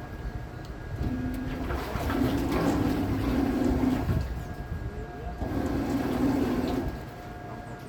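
Electric boat motor humming, with its hum swelling louder in three stretches over rushing noise and a faint steady high tone.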